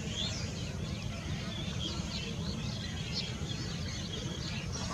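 Many birds chirping and calling in short, scattered notes over a low steady rumble.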